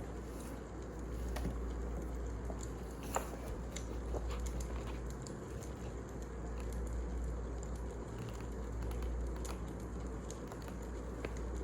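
Wood fire burning: a steady low rush with irregular sharp crackles and pops, the loudest about three seconds in.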